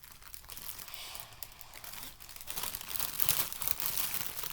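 Crinkling and crackling of a deflated, cut-open helium balloon being handled and squeezed, growing louder about halfway through.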